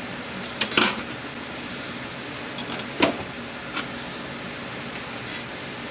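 A few sharp clinks and knocks of metal parts being handled during the teardown of an A650E automatic transmission: a small cluster about half a second in, one near the middle and a lighter one just after, over a steady background hum.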